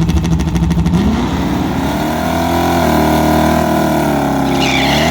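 Car engine running with a rapid pulsing beat, then revving up about a second in and holding at higher revs.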